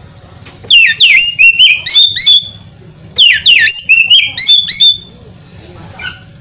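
Oriental magpie-robin singing two loud phrases, each a rapid run of whistled notes that sweep downward in pitch, with a short pause between them.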